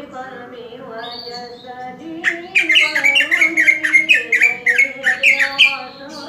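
Greater green leafbird (cucak ijo) calling: a rapid run of loud, sharp chirps, about five a second, starting about two seconds in and stopping shortly before the end.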